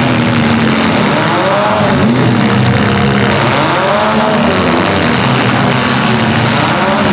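Several demolition-derby compact cars' engines running and revving, the pitch rising and falling again and again.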